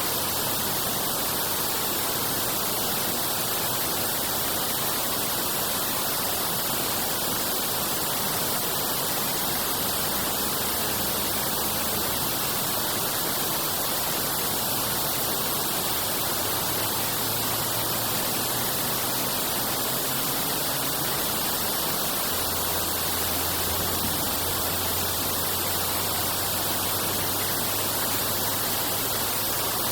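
Steady rush of drainage water flowing through the cleared channel.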